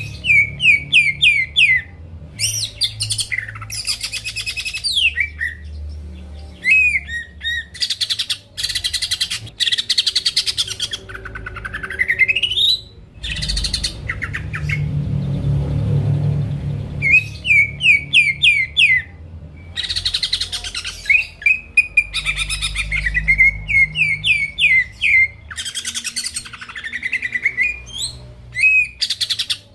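Green leafbird (cucak ijo) singing hard: runs of quick, falling whistled notes alternate with harsh, buzzy chattering bursts, with a long rising whistle about halfway through and short pauses between phrases. A faint low hum runs underneath.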